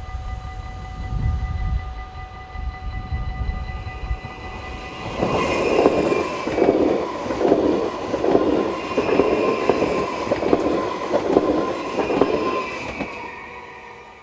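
Level-crossing bells ring steadily while an NS electric passenger train passes, starting about five seconds in and clattering over the rails with a regular beat of wheel clacks. The train sound fades out just before the end as the bells keep ringing.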